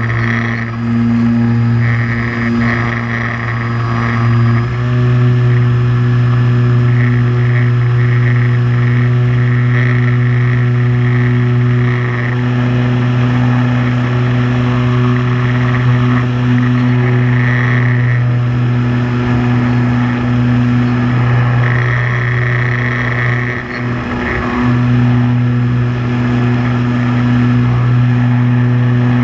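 Multirotor drone's motors and propellers humming steadily in flight, recorded through the drone's own microphone. The pitch steps up slightly about five seconds in and wavers briefly near the end.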